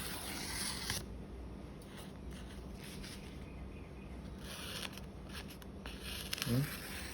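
Freshly sharpened 10 cm Victorinox paring knife slicing in a few smooth, dry strokes. It cuts without snagging, the sign of a keen edge with no chips.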